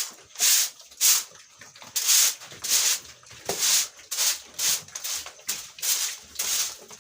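Broom sweeping a dry pig-pen floor in quick, even strokes, about two a second.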